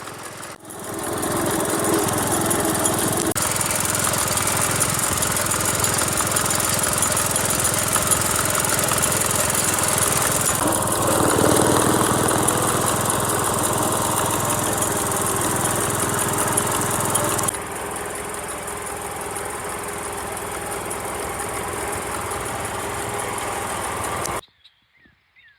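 A small engine running steadily, with a mechanical rattle spread across the range. It drops a little in level about 17 seconds in, then cuts off abruptly near the end.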